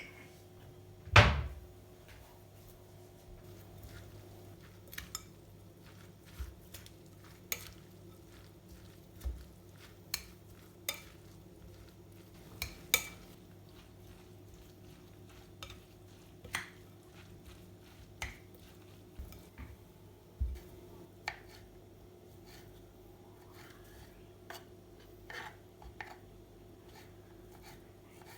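Kitchenware and utensils clinking and knocking during food preparation: scattered short taps throughout, with one loud knock about a second in, over a steady low hum.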